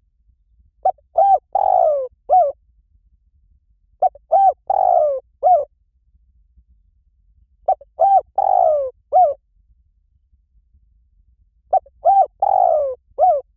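Spotted dove cooing: four repeated phrases about every three and a half to four seconds. Each phrase is two short coos, a longer falling coo and a short closing note.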